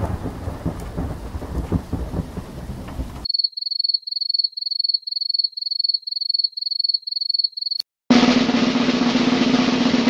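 Three sound effects in a row. First, a thunderstorm: rain with rumbling thunder, cut off about three seconds in. Then crickets chirping in a steady high pulse of about three chirps a second, and near the end a snare drum roll begins.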